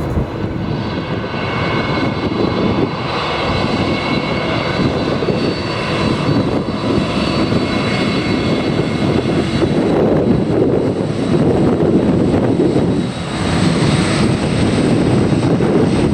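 Airbus A330 airliner's jet engines running loud and steady as it lands, with high whining tones over a deep rumble, growing louder from about ten seconds in.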